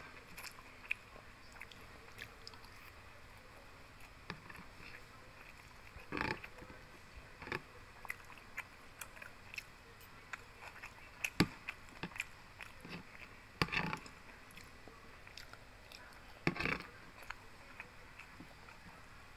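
Close-up mukbang eating sounds: chewing and biting into fried pork belly with sambal and rice. Scattered clicks of a metal spoon against a plastic food box, with a few louder mouth sounds spaced several seconds apart.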